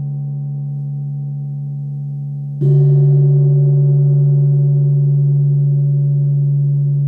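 A Tibetan singing bowl ringing with a steady low tone, struck again about two and a half seconds in, which makes it louder and adds a brighter ringing overtone that sustains on.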